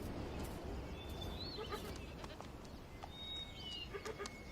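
Faint outdoor ambience with scattered light clicks of ibex hooves on the dam's stone face, and two short, high whistled bird calls about a second in and again near three seconds in.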